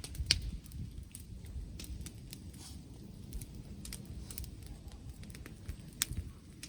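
Wood fire crackling with scattered sharp pops, two of them louder, over a low rumble of wind on the microphone.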